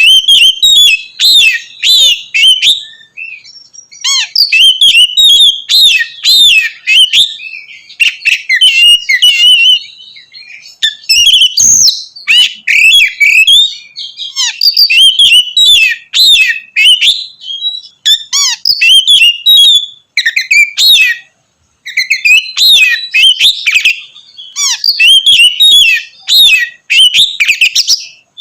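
Oriental magpie-robin (kacer) singing a loud, fast, varied song of whistled and chirping phrases, coming in runs with short pauses between them.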